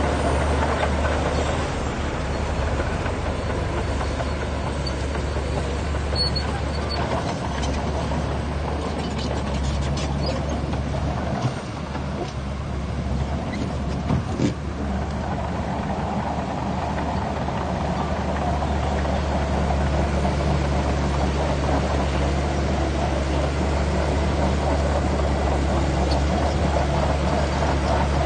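Heavy diesel engine of a Shantui DX17C2 bulldozer running steadily under load, a deep even drone, with a few short knocks about halfway through.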